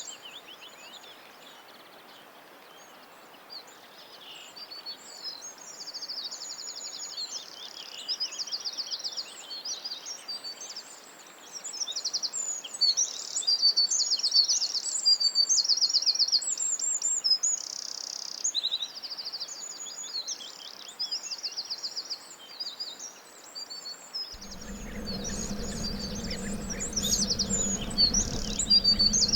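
Several small songbirds chirping and singing rapid high trills, many calls overlapping. About 24 seconds in, a steady low hum joins them.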